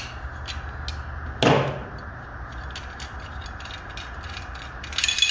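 Pliers working a metal fitting on a camping stove's burner, turned counterclockwise to loosen it: scattered small metallic clicks, one louder clack about a second and a half in, and a quick run of clicks near the end.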